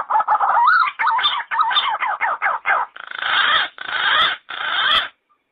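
Yellow-footed green pigeon calling: a quick run of warbling whistled notes that rise and fall, ending in a few rougher, harsher notes and stopping about five seconds in.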